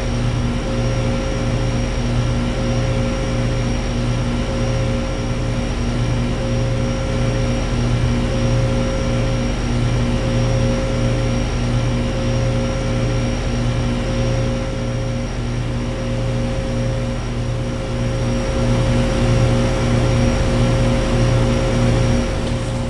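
Outdoor central air conditioner and heat pump condenser units running: a steady compressor hum with a slowly pulsing low drone, under the rushing of the condenser fans.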